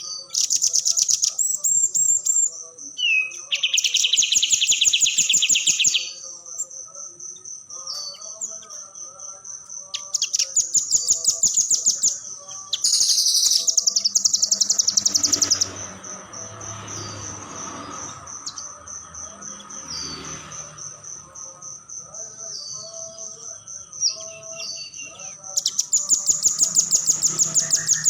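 Nuthatch (rambatan) giving very rapid, high-pitched trills in several bouts of two to three seconds each, over a steady, fast, high-pitched pulsing chirp that runs between the bouts.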